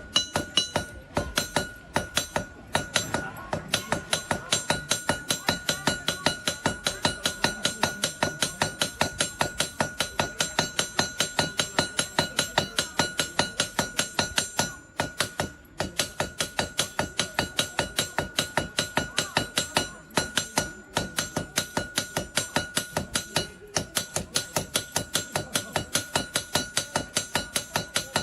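Blacksmith's hammer forging iron on an anvil: fast, even blows of about three a second over a steady high ring, broken by a few short pauses.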